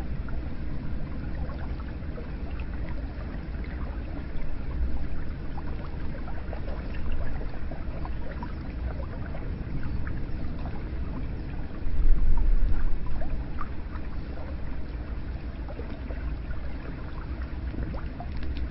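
Hot spring water pouring and trickling into a bath, a steady wash of flowing water with small scattered drips. A louder low rumble swells about twelve seconds in.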